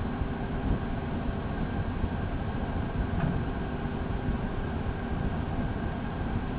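Cockpit noise of a Beechcraft Premier I taxiing: a steady low rumble from its twin turbofan engines near idle, with a faint steady whine above it.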